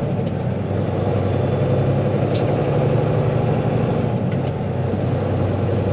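Semi truck's diesel engine running, a steady low drone heard from inside the cab while driving, with a short click about two seconds in.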